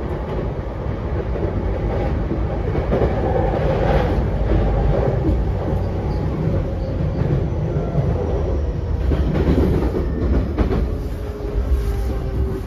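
Running sound of a JR E233 series 7000 electric train heard inside the passenger car: a steady rumble of wheels on rail with clicks from the track. A faint whine falls slightly in pitch near the end.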